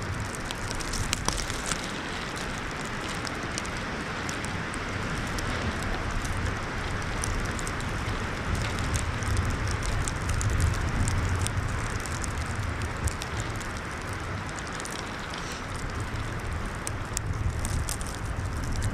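Wind rumbling on the microphone in gusts, with a plastic trash bag crackling and rustling in many small sharp ticks.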